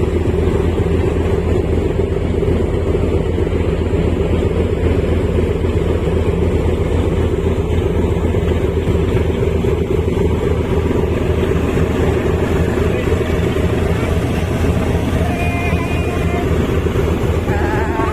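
Steady low drone of a RoRo ferry's engines running underway, unchanging throughout.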